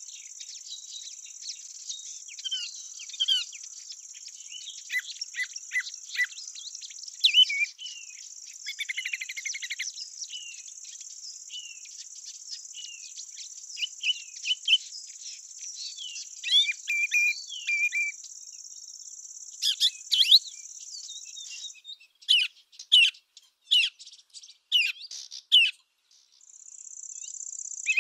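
A steady, high-pitched insect trill from the field, with many short bird chirps and twitters over it. The trill cuts off about three-quarters of the way through, leaving louder, spaced bird chirps, and returns near the end.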